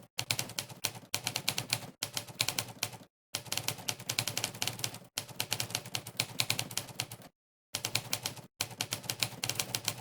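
Typewriter keystroke sound effect from the Monkeytype typing test, one clack per key pressed, coming in fast runs of rapid typing broken by short pauses.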